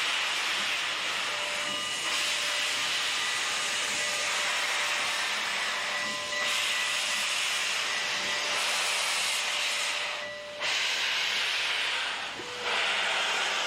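Steam locomotive letting off steam: a steady hiss that briefly drops away twice near the end.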